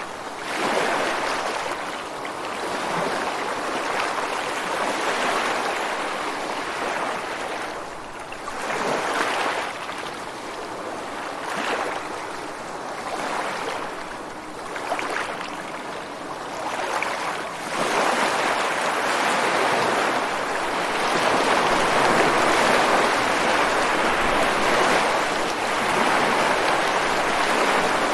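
Ocean surf breaking and washing over shoreline rocks: a continuous rush of water that swells and ebbs every few seconds, becoming louder and steadier for the last ten seconds.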